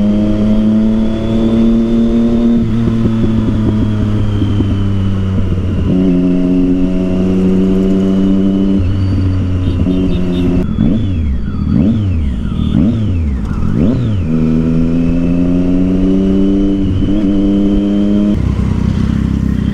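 Triumph Street Triple 675's inline-three engine through an aftermarket Yoshimura exhaust, ridden at a loud, steady engine note with short breaks. In the middle come about four quick revs, rising and falling sharply, before the steady note returns.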